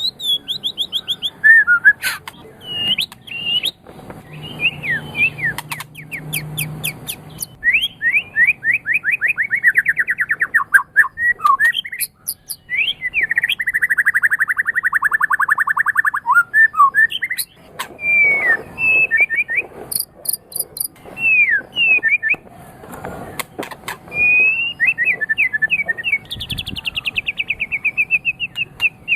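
White-rumped shama (murai batu) singing a varied song without pause: long fast trills of repeated notes, sliding whistled phrases and a few sharp clicks.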